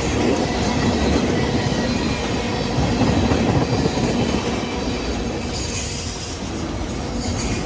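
Union Pacific train rolling steadily past on the rails, a continuous rumble of wheels on track.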